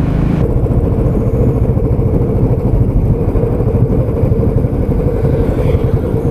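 Royal Enfield Classic 350's single-cylinder engine running steadily while being ridden. About half a second in, a high hiss dies down and a steady hum comes in over the engine's beat.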